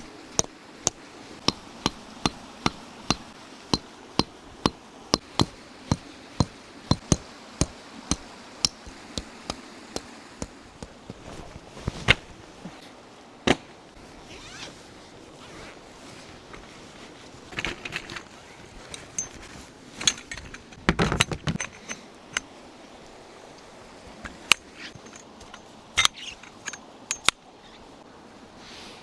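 Hammer blows driving tent stakes into frozen ground: sharp knocks at a steady pace of about one and a half a second for the first ten seconds or so, then single scattered knocks with some rustling.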